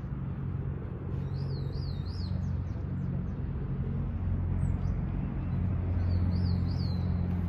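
A bird calling in two short runs of quick, wavering whistled notes, about a second in and again near the end, over a steady low hum.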